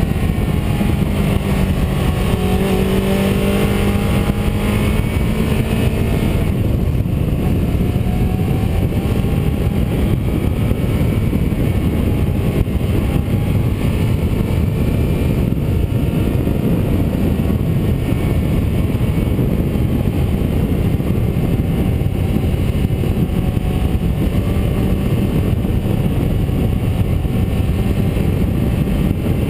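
Car engine running under load with steady road and tyre noise while driving a winding road. The engine pitch rises and falls with the bends, and the engine note changes about six seconds in.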